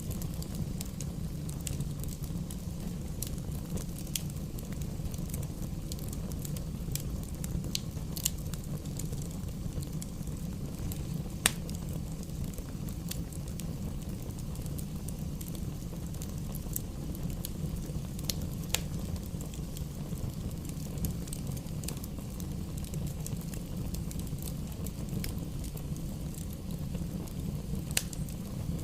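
Wood fire in a fireplace crackling: irregular sharp pops over a steady low rumble of the flames, with one louder pop partway through.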